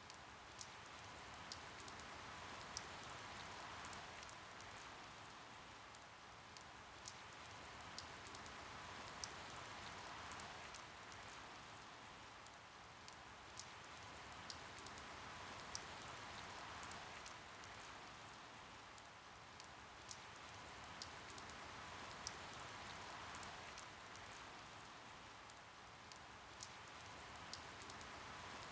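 Steady rainfall with many distinct drops pattering and dripping, the hiss swelling and easing slowly every few seconds.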